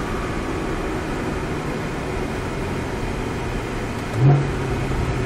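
Porsche Cayman GTS engine and road noise heard from inside the cabin while the car slows at low load. About four seconds in there is a brief low swell in the engine note.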